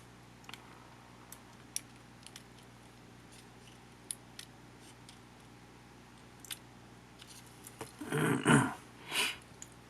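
Small camera parts and tools being handled during disassembly: scattered light clicks, then two louder crackling rustles near the end.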